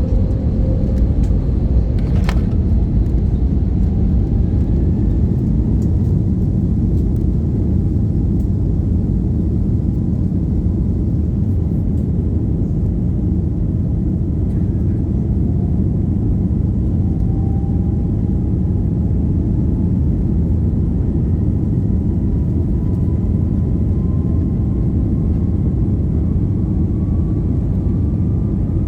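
Cabin noise inside an Airbus A321neo during takeoff: a loud, steady low rumble with a faint engine whine that rises slowly in pitch as the aircraft gathers speed. There is a brief click about two seconds in.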